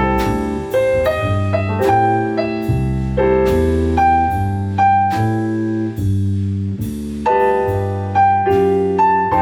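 Piano playing: chords and a melody line struck about once a second, each note ringing and fading before the next.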